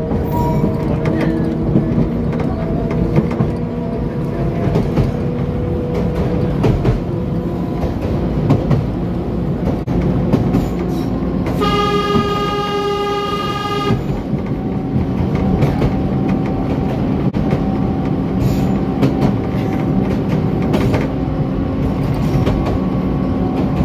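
Narrow-gauge train running, heard from the cab: a steady engine note with clicks from the wheels on the rails. About twelve seconds in, the horn sounds once for about two seconds.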